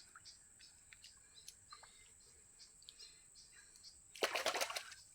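Faint outdoor ambience of scattered bird chirps over a steady thin, high insect drone. About four seconds in, a brief loud crackling rustle lasts under a second.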